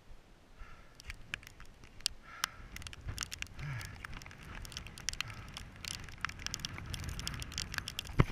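Rain pattering and crackling on the recorder: irregular sharp clicks that grow denser after about a second, over a low rumble of wind.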